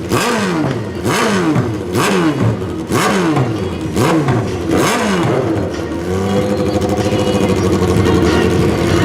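Drag-racing motorcycle engine revved in repeated throttle blips, about one every 0.8 s: each climbs in pitch, crackles at the top and falls back. About six seconds in it settles into a steady, even engine note.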